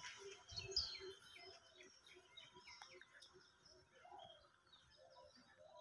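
Faint bird calls: many short, high chirps and twitters from several birds, with a soft repeated lower note in the first couple of seconds.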